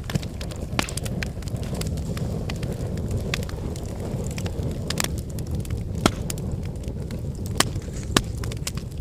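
Outdoor cooking fire crackling, with irregular sharp pops over a steady low rumble.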